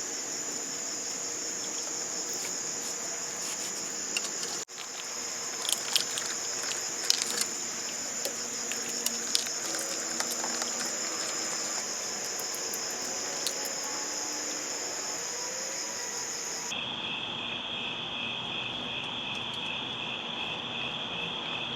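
Crickets chirring steadily in a high, continuous trill. About three-quarters of the way through, the trill drops abruptly to a lower pitch. A few faint clicks and taps sound in the first half.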